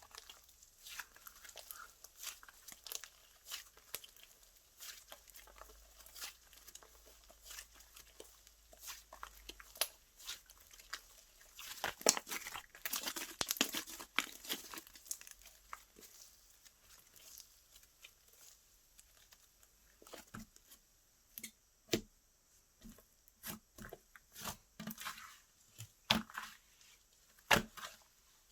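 Hands playing with slime: a run of sticky crackles and clicks as it is stretched, folded and pressed, thinning in the last third into separate, louder pops.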